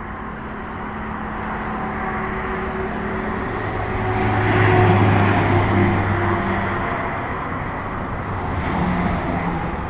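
Steady engine rumble mixed with traffic noise, with low hums, swelling slowly to a peak about halfway through and then easing off.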